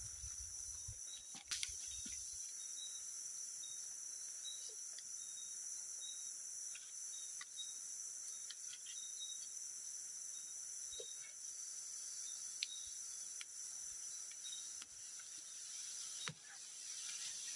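A forest insect chorus: a steady, high-pitched shrilling drone with short chirps repeating over it. A few faint ticks and knocks fall in between, the clearest about a second and a half in and near the end.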